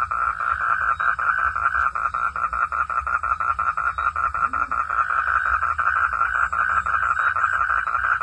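Frogs calling in a dense, steady chorus, a fast rattling pulse of about ten beats a second.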